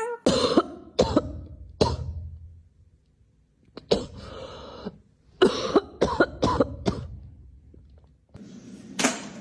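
Harsh coughing or hacking in short, sharp bursts: about four in the first two seconds, then a quick run of five a few seconds later.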